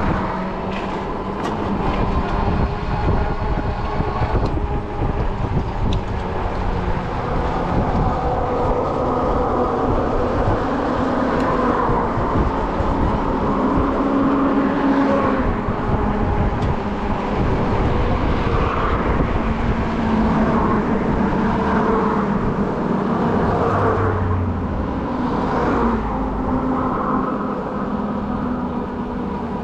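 Riding noise from an Ecotric folding fat-tire e-bike under way: wind buffeting the microphone over the rumble of the fat tyres on the road, with a steady, slightly wavering whine from the motor.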